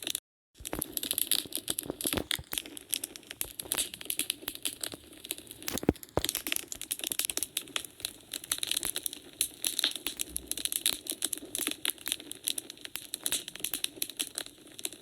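Wood fire crackling, with dense irregular snaps and pops and one louder pop about six seconds in. The sound cuts out completely for a split second just after the start.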